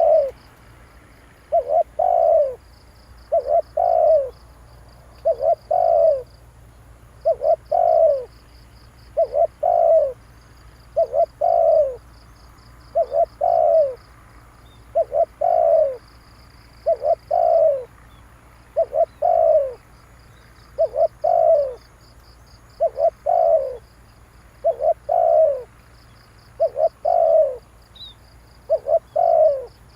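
Spotted dove cooing: a short phrase repeated about every two seconds, each a quick note or two followed by a longer falling coo. A faint, fast pulsing trill runs high in the background.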